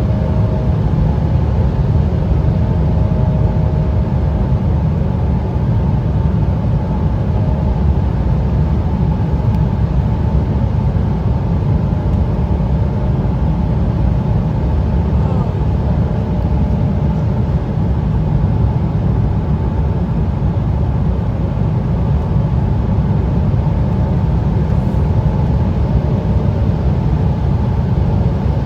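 Steady cabin noise inside an Embraer 175 regional jet during its descent: a loud, even low rumble of airflow and engines, with a faint steady hum near 1 kHz.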